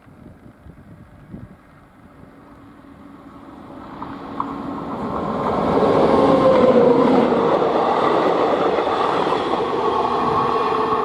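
WAP 7 three-phase electric locomotive hauling a short train as it approaches: the rumble of the train grows steadily louder over about six seconds, then stays loud with steady whining tones from the locomotive. One of these tones dips slightly in pitch as the train comes close.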